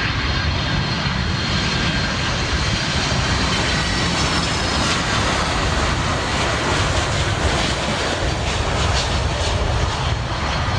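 Large jet airliner's engines passing close by: a loud, steady rush with a faint high whine over it.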